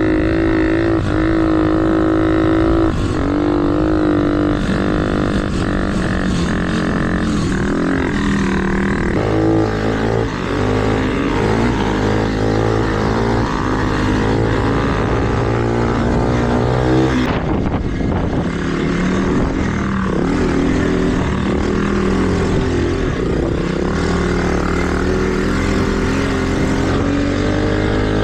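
Mini trail bike engine running hard along a track, its pitch rising and falling over and over as the throttle is opened and closed.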